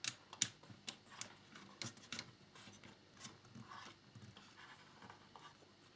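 Small clicks and taps from handling the plastic fairing of a scale model motorcycle and its small screws. Several sharp clicks come in the first half, then softer rubbing and scraping.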